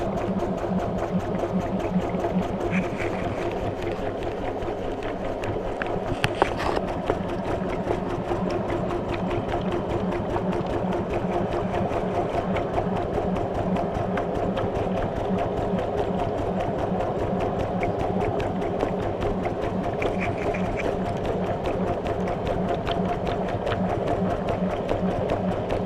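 Maytag washing machine running mid-cycle, heard from inside the tub: a steady motor hum with a fast, even mechanical rhythm, and one sharp knock about six seconds in.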